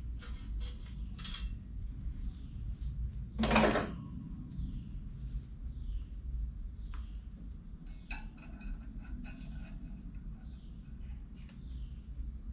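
Tools and metal parts being handled during repair work on a walk-behind mower: a loud half-second burst of noise about three and a half seconds in, then a sharp click and a run of small metallic clinks around eight seconds in.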